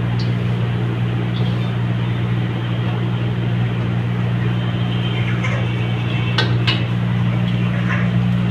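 Steady motor hum and rushing air of a blower-fed wok burner running, with two sharp metallic clinks about six and a half seconds in.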